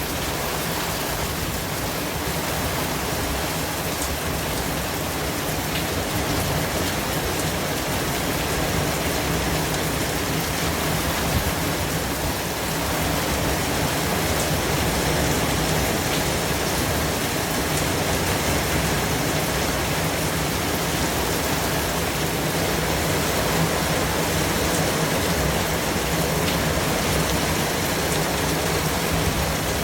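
Steady white noise: an even, unbroken hiss that gets slightly louder about thirteen seconds in.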